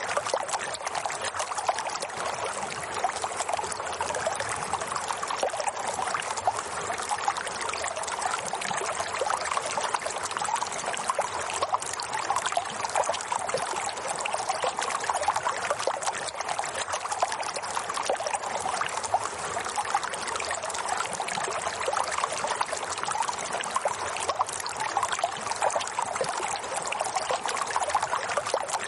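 Running water, a steady trickling flow with no breaks or changes.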